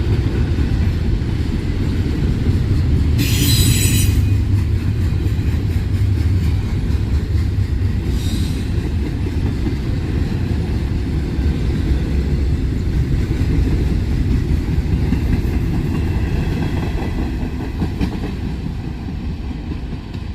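Freight train cars rolling past on the track with a steady low rumble. A brief high-pitched wheel squeal comes about three seconds in and a shorter one about eight seconds in. The rumble fades near the end as the train moves off.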